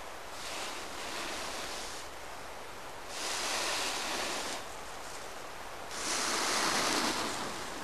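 Wind rushing, a steady noise that swells in two gusts, about three seconds in and again about six seconds in.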